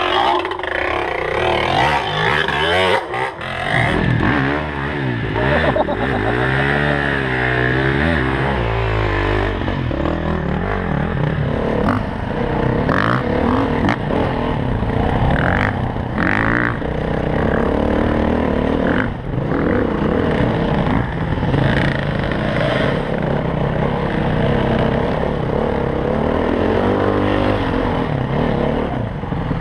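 Dirt bike engine revving and easing off over and over as it is ridden over rough trail, with scattered knocks and clatter.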